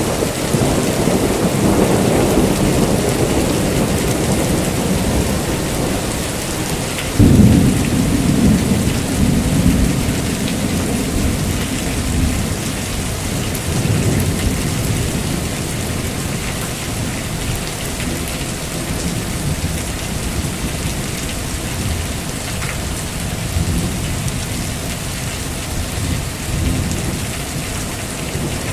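Heavy rain falling steadily, with rolling thunder rumbling throughout and a sharp thunderclap about seven seconds in.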